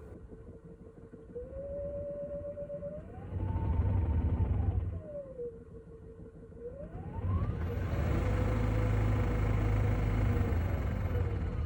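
Haier HW90-BP14636 front-loading washing machine's belt-driven inverter motor turning the drum, its whine stepping up in pitch and falling back, then rising sharply again, over the rumble of the turning drum. The rumble grows louder for a moment a third of the way in and again from about two-thirds in.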